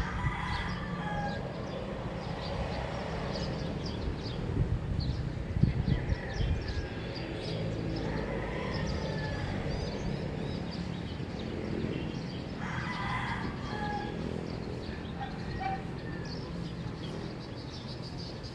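Early-morning neighbourhood ambience: roosters crowing three times, near the start, about eight seconds in and about thirteen seconds in, over many short high chirps of small birds and a steady low rumble.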